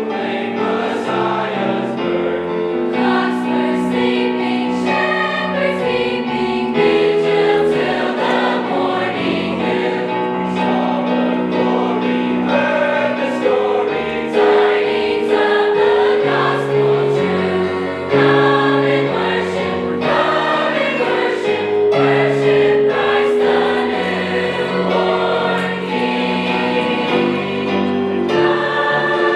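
High school choir singing in parts, with sustained chords changing every second or two.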